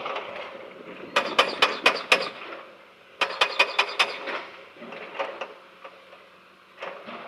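Backhoe loader striking stone: two bursts of rapid sharp knocks, about five a second, with a few scattered lighter knocks between and after.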